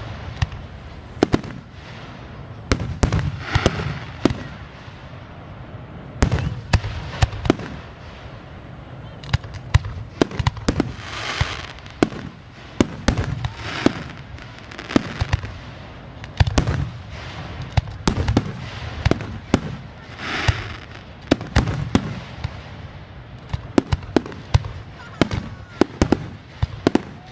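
Aerial fireworks display: an irregular, rapid string of sharp bangs and pops, with a couple of longer hissing, crackling stretches.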